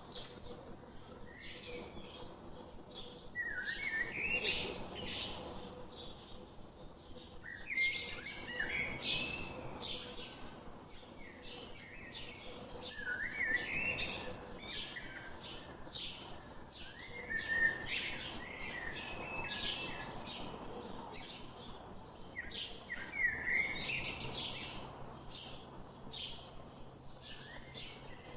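Birds chirping and calling continuously, with many short high chirps and a wavering, rising phrase that comes back about every five seconds.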